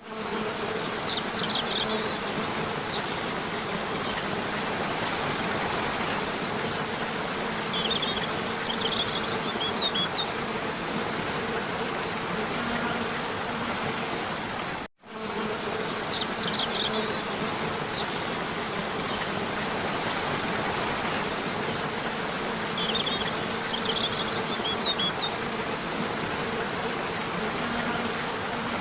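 Steady insect buzzing with a low hum, with a few short high chirps. The whole sound repeats in a loop, breaking off for an instant about every 15 seconds.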